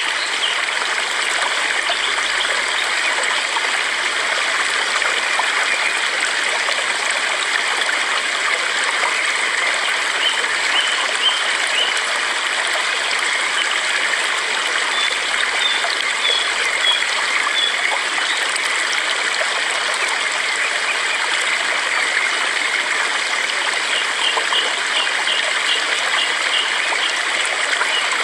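Stream water running steadily, with small birds chirping in a few quick runs now and then.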